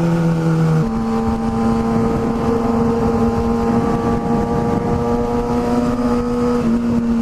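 Inline-four 600 cc sport bike engine running at steady revs on the road, with wind rushing past the microphone. The engine note jumps higher about a second in and steps back down near the end.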